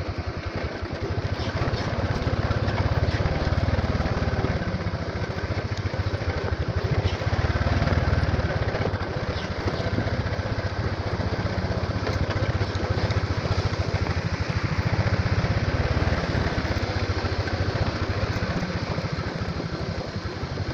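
Motorcycle engine running steadily under way, its sound rising and easing a little over several seconds.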